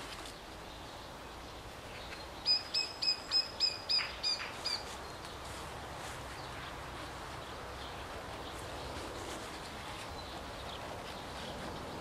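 A bird calling a quick run of about nine short, clear, high notes, roughly four a second, over a faint steady outdoor background.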